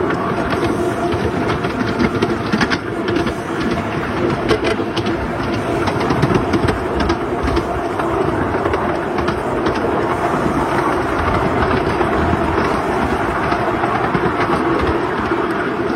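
A steady rumbling noise with scattered clicks and knocks.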